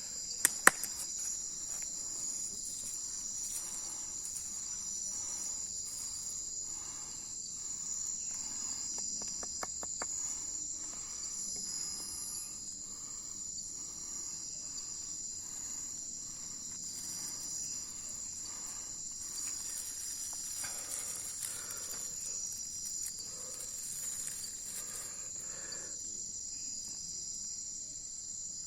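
Night insects, crickets among them, chirping in a steady high-pitched chorus. Two sharp knocks sound about half a second in.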